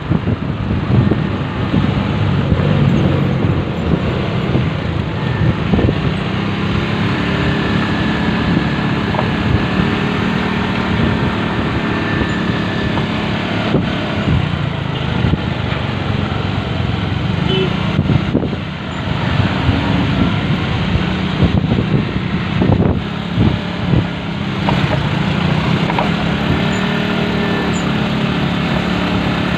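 Motorcycle engine running steadily during a ride, with wind and road noise on the microphone. The sound dips briefly about two-thirds of the way through.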